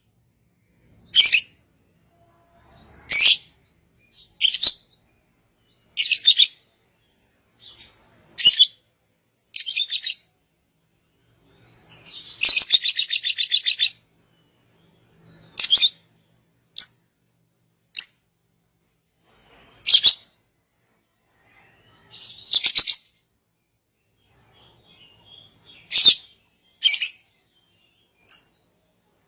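A songbird singing short, sharp, high-pitched phrases every couple of seconds, with a longer rapid trill about twelve seconds in and another near twenty-two seconds.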